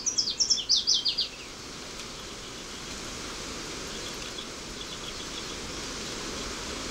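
A small songbird sings a quick phrase of about ten short, falling notes in the first second or so. After it comes a steady outdoor background hiss with faint high chirps.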